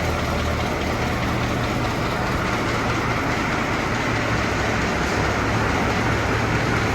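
Terra-Gator's diesel engine running steadily as the big machine is driven slowly.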